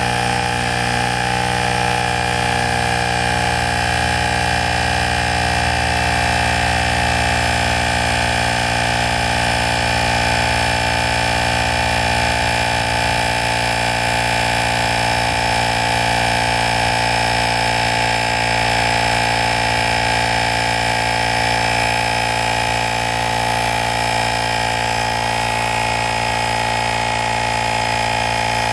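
ASMAX portable tire inflator's compressor running steadily, pumping up a car tire from about 36 to 40 psi.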